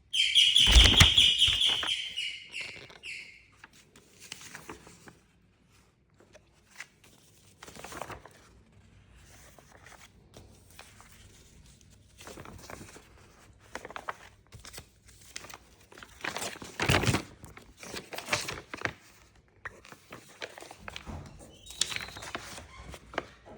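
Paper rustling and crinkling with scattered light clicks, as from a papercraft model being handled. The loudest sound is a burst with a pulsing high tone and a low thump that fades over the first three seconds.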